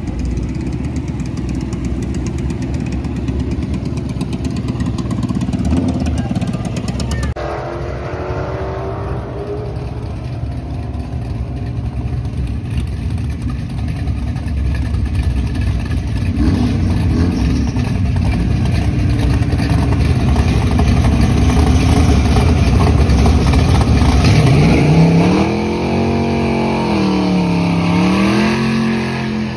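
Drag-strip car engines running and revving, ending with the turbocharged Honda B18 four-cylinder of a Civic hatchback revving up and down several times in the water box, setting up for a burnout.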